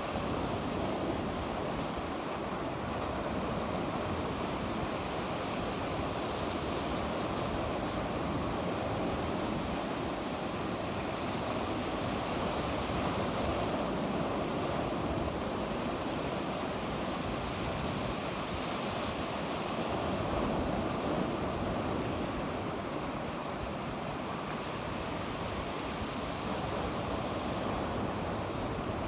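Sea waves washing on the shore in a steady, continuous wash with slow gentle swells, with some wind on the microphone.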